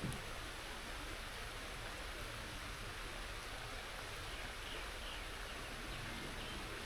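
Rain falling in a steady, even hiss, with one brief click right at the start.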